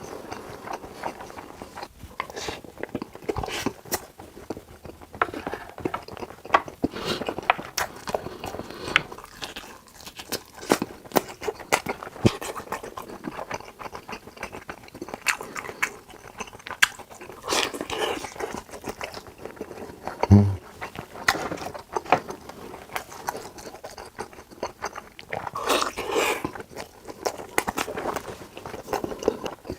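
Close-miked eating: chewing and biting food with frequent wet clicks and crunches.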